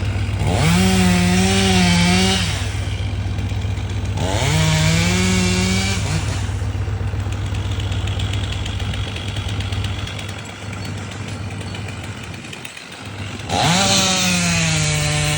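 Gas chainsaw idling and revved up to full throttle three times, each rev climbing quickly in pitch and holding for about two seconds before falling back to idle; the last rev begins near the end.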